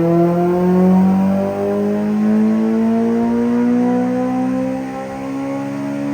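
Honda Civic FN2 Type R's K20 four-cylinder VTEC engine running through a Piper 3-inch exhaust, its revs climbing slowly and steadily in one long full-throttle pull.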